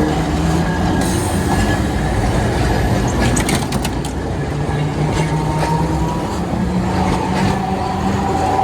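Tram running on its rails, a steady low hum with a quick cluster of wheel clicks about three seconds in and a thin higher whine in the second half.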